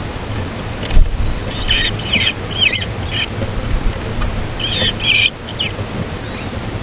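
Small songbirds calling in two quick bursts of sharp, gliding chirps, about two and five seconds in, over a steady low rumble of background noise. A single knock comes about a second in.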